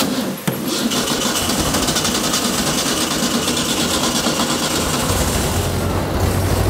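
Mexican VW Beetle's air-cooled flat-four engine running with the engine lid open. A sharp click comes about half a second in, then a loud hissing rush for about five seconds, which gives way to a deeper, steady running near the end.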